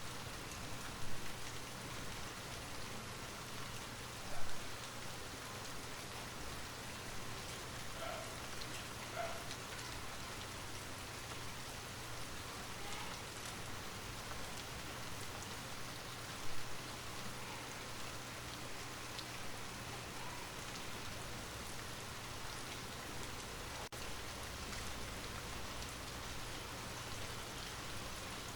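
Light rain falling steadily, an even hiss of rain with scattered drops pattering on a surface, and a few louder single drops.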